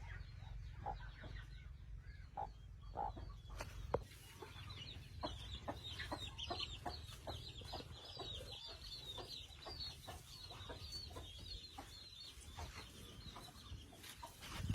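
Chickens clucking, with a run of rapid, high, short calls from about four seconds in. A low rumble fills the first four seconds and ends with a sharp knock.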